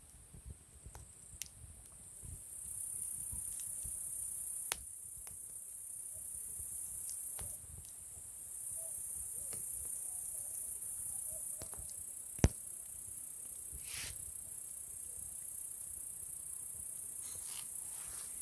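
Wood campfire crackling with a few sharp pops, the loudest about two-thirds of the way through, over a steady high-pitched chorus of insects.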